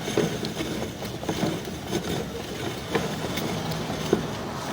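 Sewer inspection camera's push cable rattling and clicking as it is fed off its reel into a drain line, with irregular sharp clicks over a steady mechanical hum.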